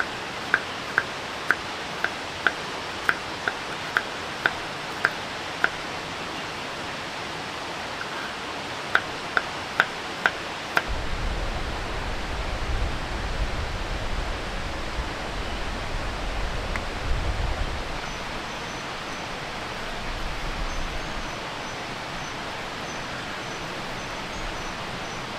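Steady heavy rain hissing. Near the start there is a run of about a dozen sharp knocks, two a second, and four more about ten seconds in, followed by a low rumble lasting about ten seconds.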